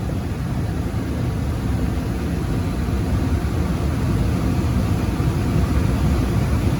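Gas furnace running: a steady rumbling noise from the blower and burners, slowly getting a little louder.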